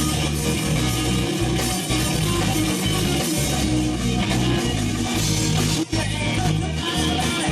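Heavy rock music with distorted electric guitar and drum kit, instrumental, with a brief break near the end.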